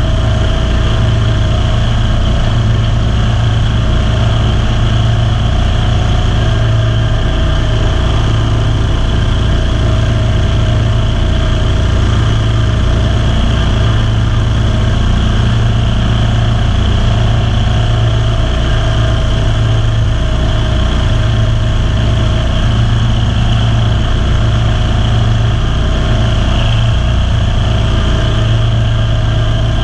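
Kawasaki V-twin engine of a Ferris zero-turn lawn mower running loud and steady at an even speed.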